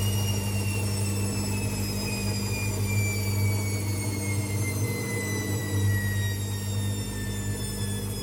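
AEG Lavamat Exclusiv 6469AFL washing machine spinning down: a whine that falls slowly and steadily in pitch, over a steady low hum.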